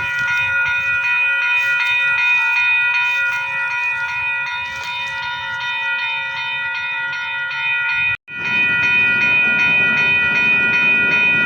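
Railroad grade-crossing bell clanging in a rapid, even run of strikes, each leaving several steady ringing tones. The sound cuts out for a split second about eight seconds in.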